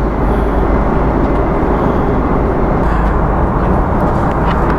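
Airliner cabin noise in flight: a loud, steady drone of engines and airflow heard inside the passenger cabin.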